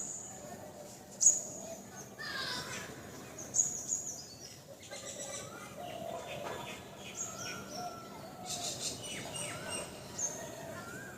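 Songbirds calling: several sharp, high chirps (one about a second in, a pair near three and a half seconds, another near the end) among quicker falling and warbling call notes.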